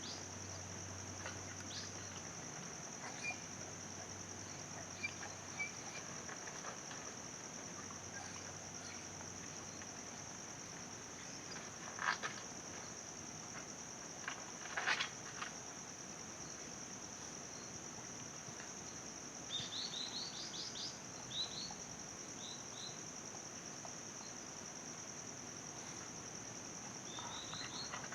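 Insects keep up a steady high-pitched drone while small birds chirp in short quick runs, at about 20 seconds in and again near the end. Two brief louder sounds break in at about 12 and 15 seconds.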